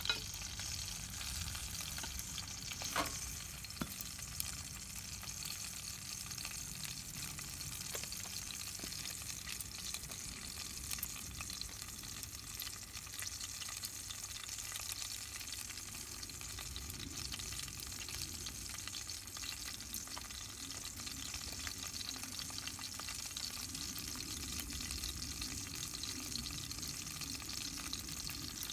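Steady crackling hiss of a wood fire, full of fine pops, with a sharper crack about three seconds in.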